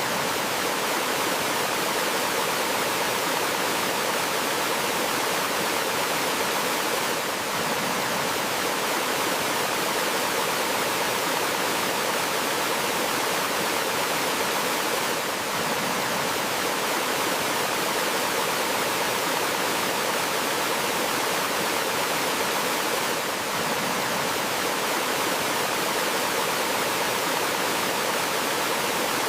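Water of a small forest waterfall and stream rushing steadily over rocks, a dense even hiss with a faint swell about every eight seconds.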